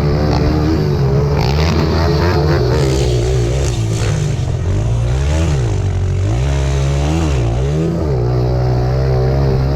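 Small single-cylinder pit bike engines racing, revving up and down as the riders roll off and back onto the throttle, with the pitch dipping and climbing several times in the middle.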